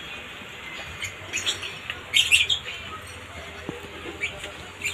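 Small birds chirping in short, high bursts, the loudest cluster about two seconds in.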